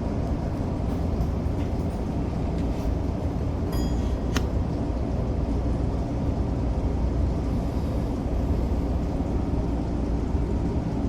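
Tokyo Metro 05 series train running, heard from inside the front car: a steady low rumble of wheels on rail, with one sharp click about four seconds in.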